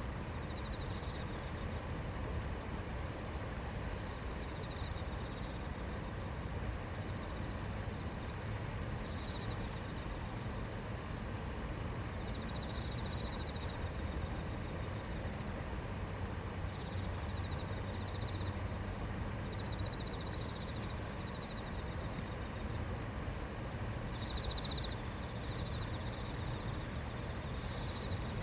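A shallow river babbling steadily over stones. Faint high chirps come and go now and then, from a small bird or insect.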